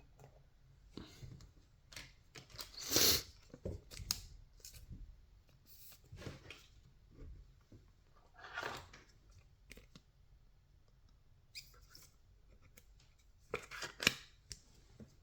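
Baseball trading cards being handled: cards sliding and flicking against each other in short, irregular swishes, loudest about three seconds in and again near the end.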